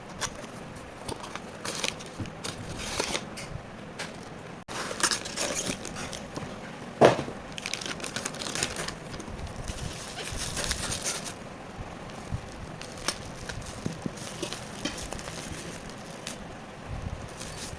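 Packaging crinkling and rustling as a parcel is handled and opened by hand, in a run of short, irregular crackles. One sharper, louder knock comes about seven seconds in.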